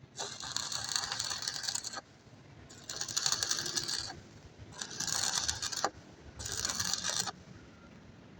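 Four bursts of rapid metallic rattling or clicking, each lasting about one to two seconds, with short pauses between them.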